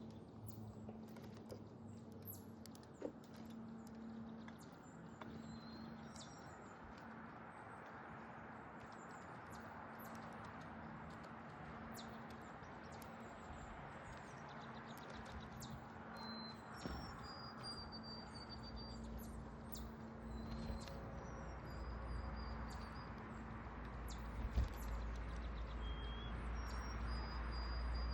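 Backyard songbirds at a feeder calling with short, high, clear whistled notes, some held for about a second, among scattered sharp clicks. A faint steady hum runs underneath, and a low rumble builds about two-thirds of the way in.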